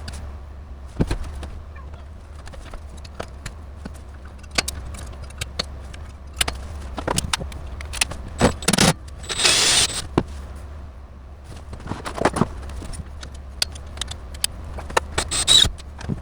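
Hands handling cables and equipment: scattered clicks, knocks and rattles, with a scraping rustle about nine seconds in, over a steady low hum.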